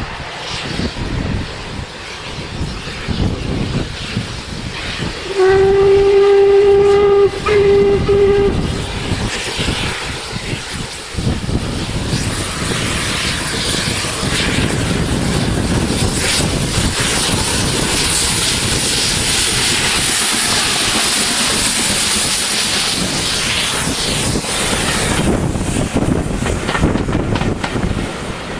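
Steam whistle of LMS Jubilee class 4-6-0 No. 45699 Galatea, sounded for about three seconds with a brief break in the middle. About ten seconds in, the loud, steady noise of the locomotive working its train past close by begins, with wind buffeting the microphone before it.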